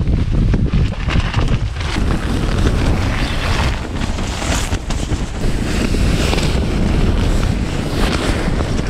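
Strong mountain wind buffeting the microphone in gusts, a heavy rumbling rush.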